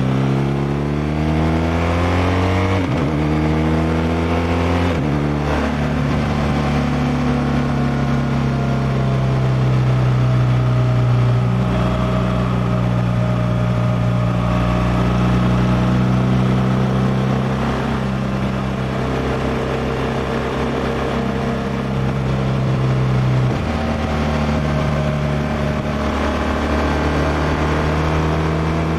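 A 2016 BMW R1200R LC's liquid-cooled boxer twin under way, revs rising as it accelerates. The engine note drops at gear changes about three and five seconds in, then holds steady at cruising speed. The note changes again twice in the last few seconds.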